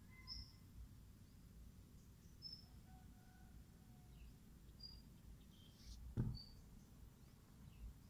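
Faint, sparse bird chirps: a few short high chirps several seconds apart and some soft whistled notes. A short low thump about six seconds in is the loudest sound.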